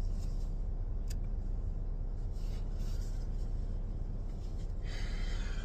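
Vehicle engine idling: a steady low rumble, with a faint click about a second in.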